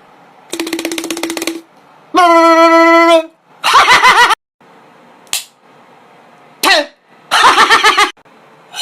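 A person's voice making a run of short mouth sound effects, one after another: a buzzing rattle, a steady held tone, a short hiss and several quick pulsing bursts.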